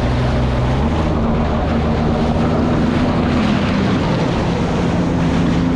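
Jet ski engine running steadily, with a rush of wind and water spray over it. The engine note shifts slightly about a second in and again near the middle.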